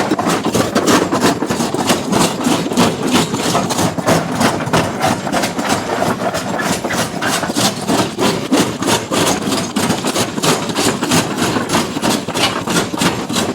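Heavy stone-crushing machinery at work: rapid, regular pounding strikes on rock over a running engine.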